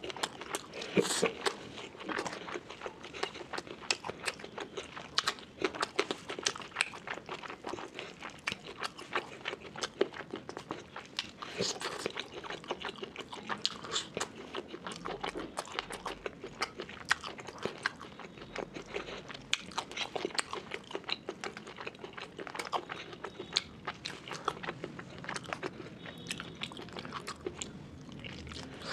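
Close-up chewing and biting of hand-fed mouthfuls of rice and curry, a steady run of short, sharp mouth clicks and smacks at an irregular pace.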